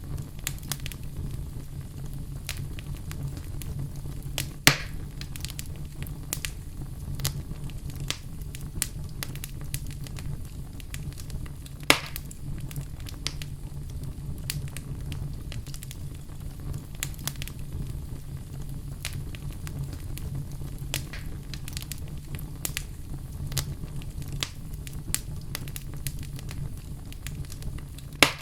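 Fire burning in a fireplace, crackling steadily with many small snaps over a low rumble. Three louder pops stand out: about five seconds in, about twelve seconds in, and near the end.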